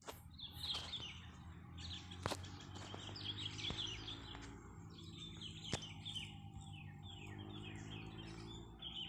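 Sooty-headed bulbuls (kutilang) calling and chattering: quick series of short, falling chirps from several birds at once. A low steady hum runs underneath, with a few sharp clicks.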